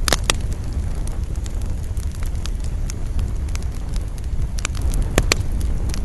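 Campfire crackling, with sharp pops right at the start and again about five seconds in, over a steady low rumble.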